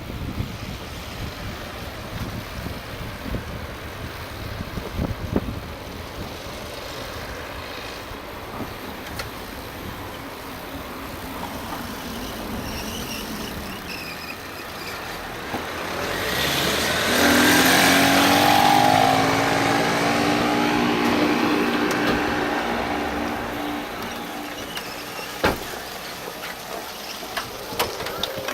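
Wind noise on the microphone while riding, then a motor vehicle passing close. Its engine note grows loud a little past halfway, holds for several seconds and fades. A few sharp clicks come near the end.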